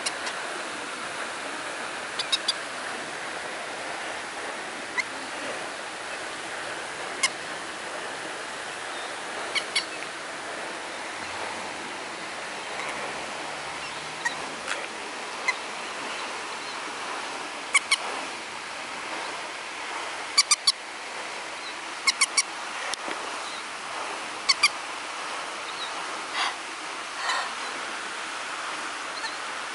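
Short, sharp, high bird chirps, singly or in quick pairs and triplets every few seconds and more often in the second half, over a steady rush of flowing water.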